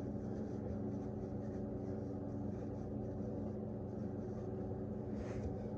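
A steady machine hum with several constant tones, with a brief hiss about five seconds in.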